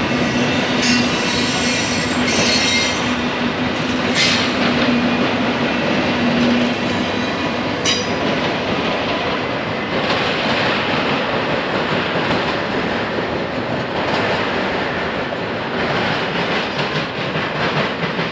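Freight train rolling past, a steady rumble of steel wheels on rail, with a few brief high-pitched wheel squeals in the first eight seconds.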